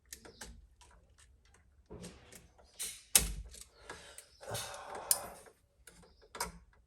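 Scattered small clicks, taps and scraping of a stripped wire and hand tools being worked while hooking the wire onto an electrical outlet's terminal screw, with one sharp click about three seconds in.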